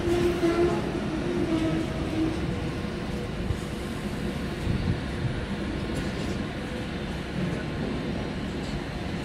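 Freight train of covered car-carrier wagons rolling steadily past, with a continuous rumble of wheels on rail. A short whining tone sounds during the first couple of seconds.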